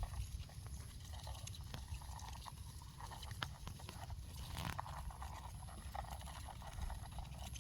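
Irregular light clicks and crackles of wood and leaf litter being handled and shifted, over a steady low rumble.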